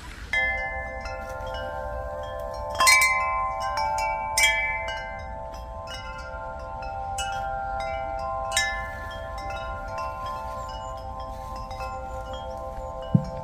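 Chimes ringing: a chord of sustained bell-like tones starts suddenly and rings on, with a few louder struck notes over it, the strongest about three seconds in.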